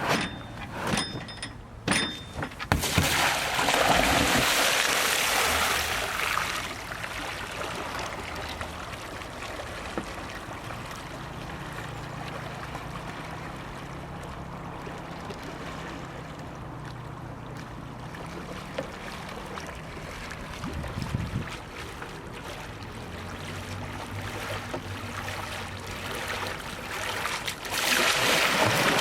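Kayak launching and being paddled forward on flat water: water splashing and trickling off the paddle blades, with a few sharp knocks in the first couple of seconds and a louder rush of water a few seconds in and again near the end.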